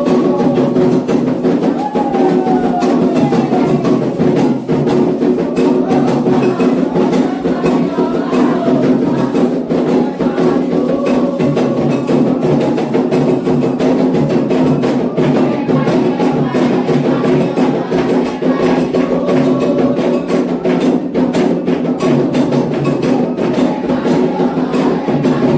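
Candomblé atabaque hand drums playing a fast, steady rum rhythm for Ogum. A sharp wooden or metal timekeeper clicks along with them.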